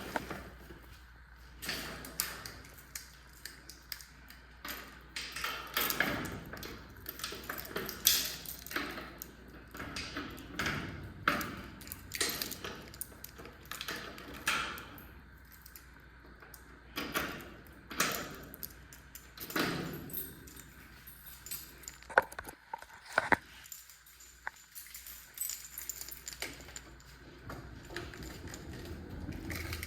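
Irregular knocks, clicks and rattles of a suitcase and other stored things being handled, closed up and moved about.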